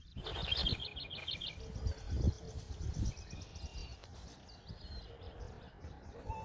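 Small birds chirping: a fast trill of short high notes for the first second or so, then thin high whistles, over a low background rumble.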